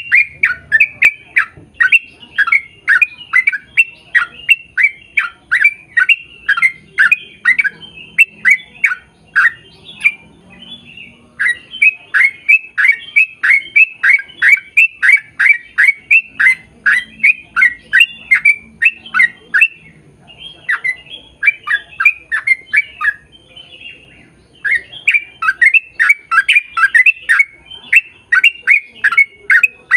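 A bird calling loudly and insistently, short harsh notes about three a second in long runs, with brief pauses about a third of the way in and twice more later.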